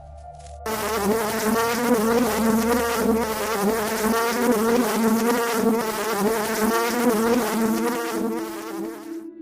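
A flying insect such as a fly or bee buzzing close by, a steady drone whose pitch wavers slightly. It starts about a second in and cuts off just before the end.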